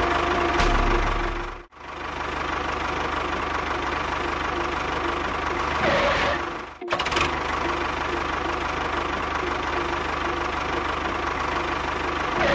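Mini tractor engine running steadily with a regular pulsing beat, dropping out abruptly twice.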